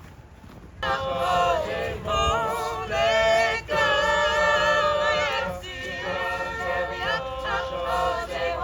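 A choir singing in harmony without instruments, sustained notes with vibrato, starting about a second in.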